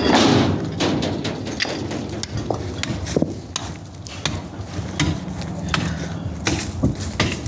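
Construction work noise: irregular knocks and clinks, several a second at times, with a louder burst right at the start, over a steady low hum.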